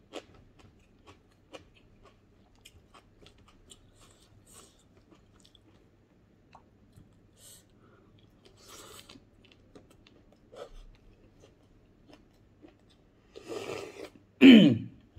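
Close mouth sounds of a person eating by hand: soft chewing, crunching and lip-smacking, heard as many small clicks. Near the end come a noisy slurp from a coconut-shell bowl and a short, loud sound that falls in pitch.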